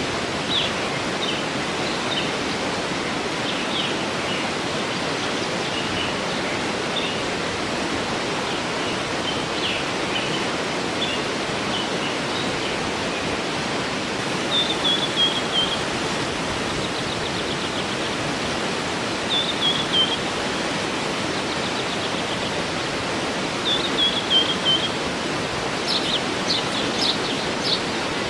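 A waterfall rushing steadily while birds sing over it: scattered short chirps at first, then a short falling phrase repeated three times, and a quick run of chirps near the end.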